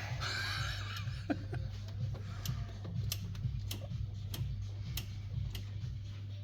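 Turbocharged Pontiac Trans Am engine running with a low, uneven hum and a sharp tick about every 0.6 seconds. It is the noise that came up during break-in of the new flat-tappet camshaft, and the valvetrain was later found to have too much lash.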